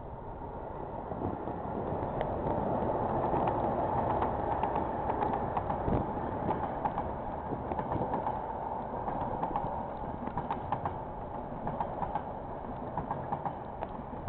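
KiwiRail diesel-hauled freight train passing: the locomotive's rumble builds to its loudest about five seconds in, then the wagons roll by with rapid clacking of wheels over the rail joints.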